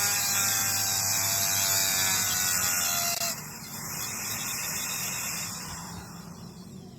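A small electric motor whining and slowly winding down under a steady hiss; the whine stops about three seconds in and the hiss fades away.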